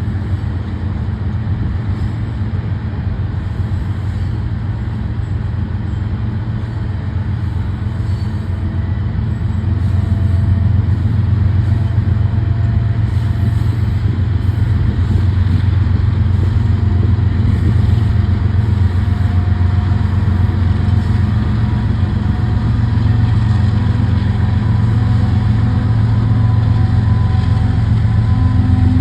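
Union Pacific manifest freight train rolling past with a steady, heavy low rumble that grows louder about ten seconds in, with faint thin whining tones over it in the second half.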